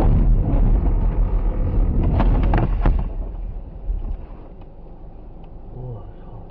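Vehicle and wind rumble, loud for about three seconds with a few sharp knocks, then dropping to a quieter rumble.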